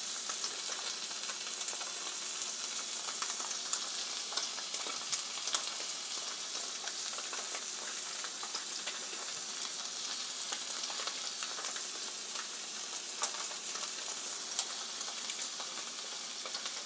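Two slabs of tofu frying in oil in a stainless steel pan: a steady sizzle with a few sharp pops scattered through it.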